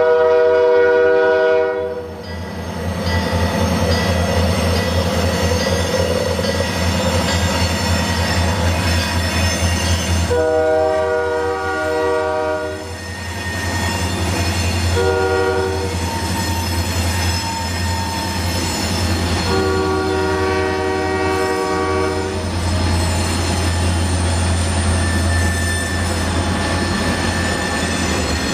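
Diesel freight locomotive's air horn sounding two long blasts, one short and one long, the standard signal for approaching a grade crossing, over the steady low rumble of the locomotives' diesel engines.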